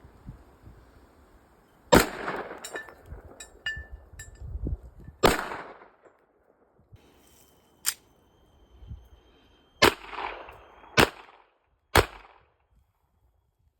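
Six gunshots fired one at a time, spaced unevenly a second to a few seconds apart, each followed by a short echo, with a few faint clicks between the first two shots.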